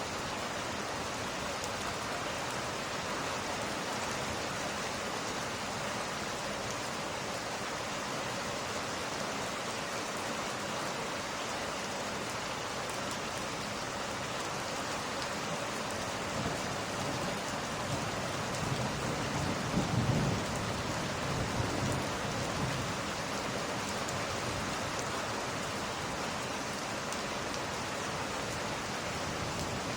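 Steady rain falling, with a low roll of thunder that builds a little past halfway, peaks about two-thirds of the way in, then fades back under the rain.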